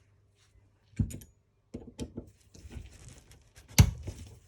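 Small metal engine parts and tools clicking and knocking together while a nitro model engine is taken apart by hand: a knock about a second in, a run of light clicks, then one sharp, louder knock near the end.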